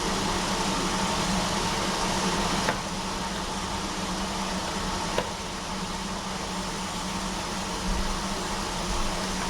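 Steady fan-like room noise with a low hum, broken by two faint clicks about two and a half seconds apart.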